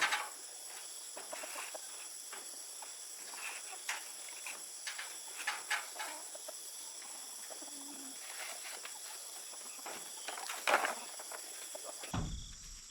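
Rural outdoor ambience: scattered short bird calls over a steady high-pitched background hiss, changing abruptly near the end.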